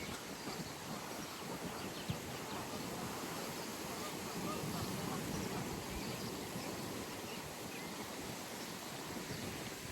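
Outdoor pond ambience: a steady rushing of wind, with a few faint short bird calls and a soft knock about two seconds in.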